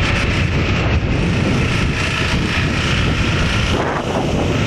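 Truck driving past, a steady rumble of engine and tyres mixed with wind buffeting the microphone.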